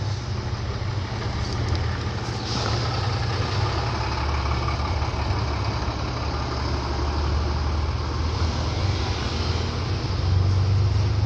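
A steady low mechanical hum with a constant rushing noise, growing a little louder near the end.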